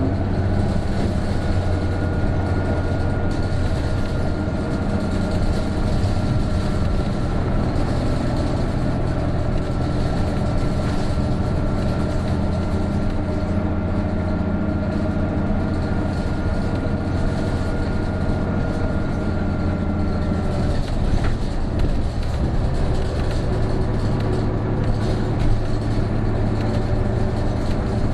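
Isuzu PJ-KV234L1 city bus heard from inside the cabin, its engine running under load on a climb, with a thin high whine over the engine note. About two-thirds of the way through the whine stops and the engine note drops, as on a gear change or when the throttle eases.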